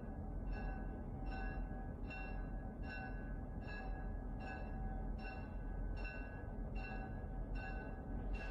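A railway bell ringing steadily, a little more than once a second, over the low rumble of a train.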